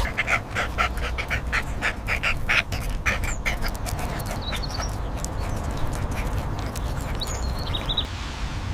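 A dog panting fast, about four to five breaths a second, stopping about three seconds in, over a steady low rumble.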